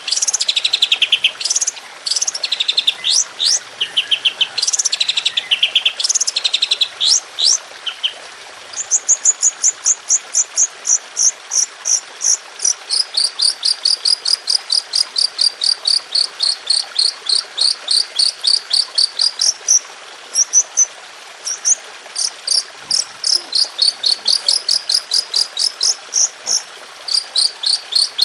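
Songbird singing: varied high, sweeping whistled phrases, then long runs of rapidly repeated short notes, about four a second, the fast 'tembakan' (shooting) style used in masteran recordings for training caged songbirds.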